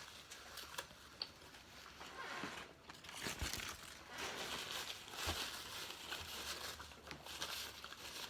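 Crinkling of a burger wrapper and the sounds of chewing a mouthful of Double Whopper, with a couple of soft knocks.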